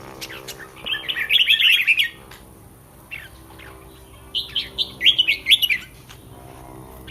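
Red-whiskered bulbul song: two bursts of quick, warbled phrases, one about a second in and another just after four seconds, with scattered short chirps between them.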